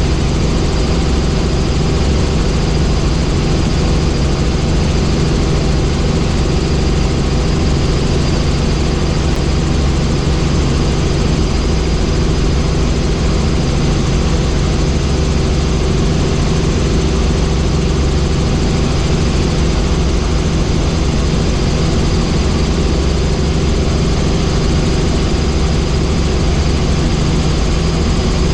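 Tour helicopter in flight: steady, loud engine and rotor noise that holds an even pitch.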